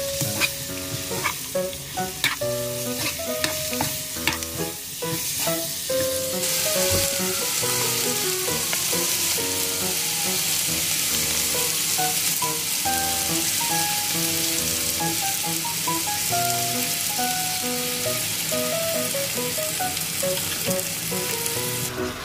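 Chicken pieces frying in a stone-coated wok, a metal spoon tapping and scraping the pan as it stirs. About six seconds in, a louder steady sizzle takes over as the browned chicken fries.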